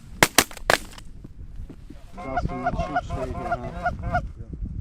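Three shotgun shots in the first second. About two seconds in, a rapid run of goose honks lasts about two seconds, over a low wind rumble on the microphone.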